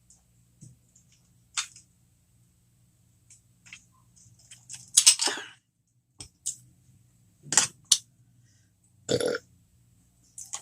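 A woman burping a few times, with short wet mouth clicks and smacks from eating between the burps.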